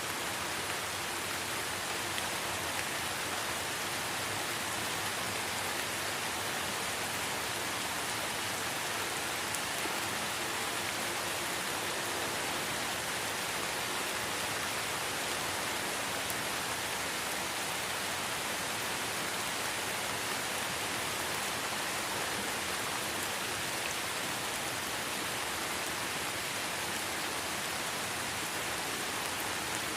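Light rain falling steadily in a forest, an even patter of drops with no change in strength.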